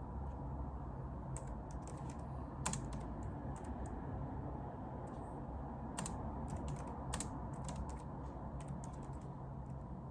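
Typing on a computer keyboard: irregular runs of sharp key clicks, with a few louder strokes, over a steady low room hum.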